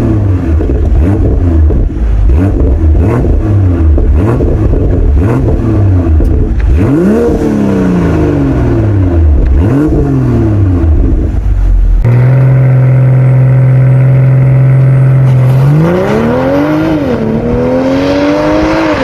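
2022 BMW M240i's 3.0-litre turbocharged inline-six exhaust, revved repeatedly with the pitch rising and falling between blips, with sharp pops in between. About two-thirds of the way in the sound switches to a steady held note, then rises in pitch, dips briefly at a gear change and rises again as the car accelerates.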